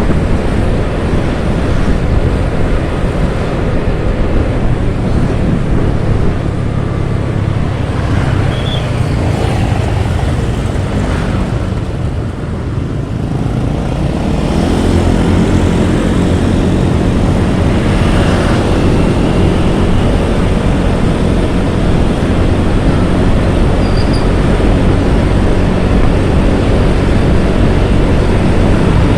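Motorcycle engine running under way, with a steady rush of wind and road noise. It eases off about twelve seconds in, then picks up again.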